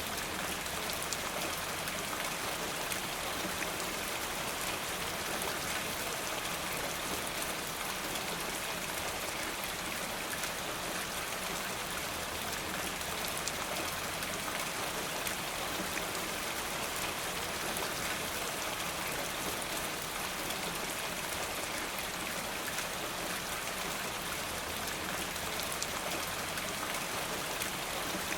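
Steady rain falling, a dense even hiss with a fine patter of drops that holds unchanged throughout.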